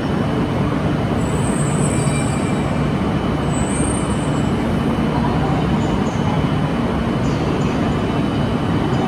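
Shinkansen train standing at the station platform, its onboard equipment giving a steady hum over a continuous noise.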